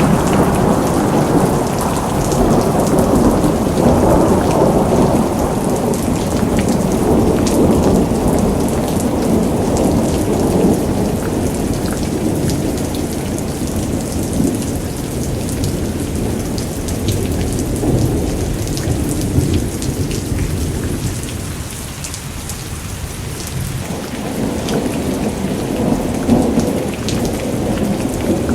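Heavy monsoon rain falling: a steady rush with scattered drop ticks over a low rumble that rises and falls, easing about three-quarters of the way through and building again near the end.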